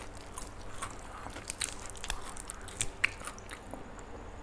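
Close-miked chewing and biting of roasted chicken: irregular wet mouth clicks and small crunches.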